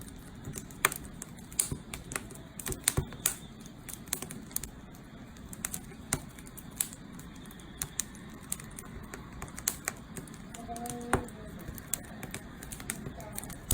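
Wood fire crackling in a campfire stand: irregular sharp pops and snaps, some much louder than others, over a steady low hiss.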